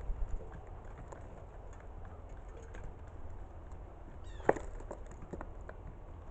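A bird gives one short, sharp call about four and a half seconds in, followed by a few light taps, over a low steady rumble.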